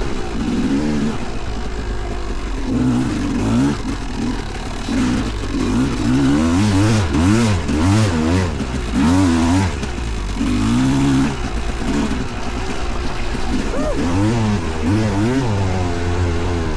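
Vintage two-stroke motocross bike engine revving up and down over and over as it is ridden through sand, the pitch climbing and dropping every second or two.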